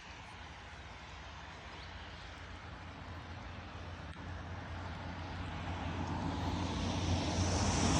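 A steady engine drone that grows gradually louder.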